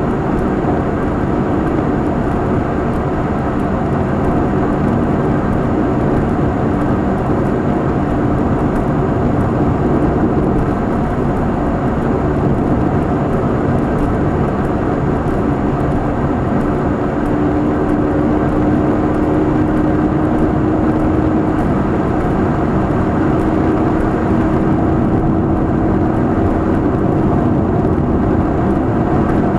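Nissan K12 March 12SR's 1.2-litre four-cylinder engine, through a Kakimoto aftermarket exhaust, heard inside the cabin with road noise while driving at a steady pace. The engine note rises slowly in the second half.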